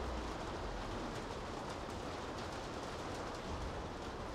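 Steady rain on city streets: an even hiss with scattered drop ticks over a low rumble that swells briefly about three and a half seconds in.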